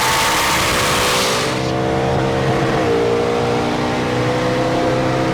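Car engine running at steady revs under a loud rushing noise, which falls away about a second and a half in and leaves the engine's even drone. Its pitch steps down slightly about three seconds in.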